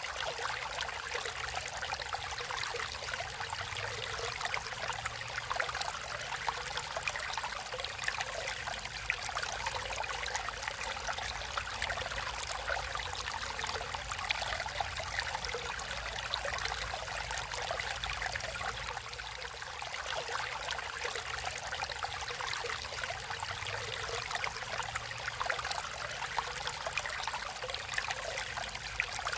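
Natural stream water flowing and trickling steadily, with a constant splashing and babbling.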